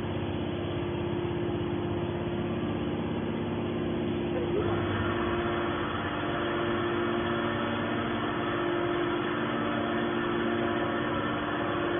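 Hydraulic scrap metal baler press running, its pump motor giving a steady hum, with a harsher, noisier layer joining about four and a half seconds in.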